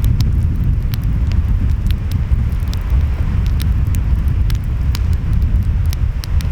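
Wood fire crackling, with sharp irregular pops several times a second, over a steady low rumble of ocean waves and wind.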